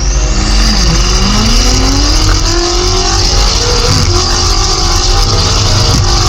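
BMW M8 Gran Coupe's twin-turbo 4.4-litre V8 accelerating hard, its note climbing in pitch over several seconds, with a brief dip about a second in. A steady high hiss runs underneath.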